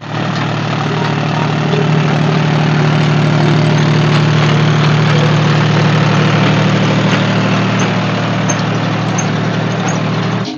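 Diesel tractor engine running steadily and loudly, with a strong low drone; it cuts off suddenly near the end.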